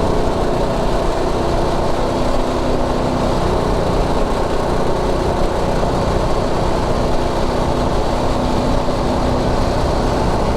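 Predator 212 Ghost single-cylinder four-stroke engine running flat out, held steady at its rev limiter, with wind rushing over a helmet-mounted mic.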